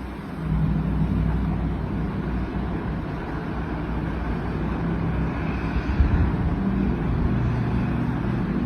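A motor vehicle running steadily, with its engine hum under a constant rush of noise.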